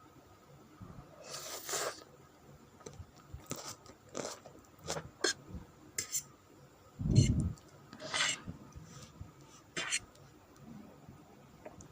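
Close-miked eating of spicy chicken noodles: scattered wet mouth clicks and chewing, several short slurps, and a dull low thump about seven seconds in.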